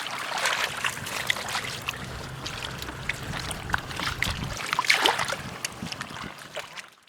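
Water splashing and trickling, with many small clicks and splashes, as if something is being worked by hand in shallow water. It cuts off abruptly just before the end.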